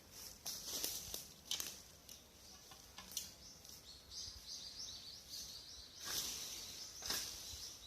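Dry branches and leaves rustling and crackling in short bursts as debris is handled, with a small bird giving a quick series of high chirping notes about halfway through.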